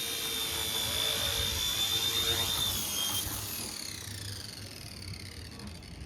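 Small RC ERA C138 Pro Bell 206 scale RC helicopter's electric motor and rotor whining steadily, then falling in pitch and fading from about three seconds in as it spools down.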